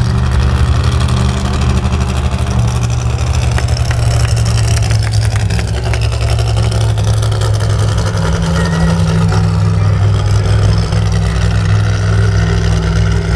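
Monster truck engine running loud at a fairly steady pitch, with a slight rise in pitch about eight seconds in.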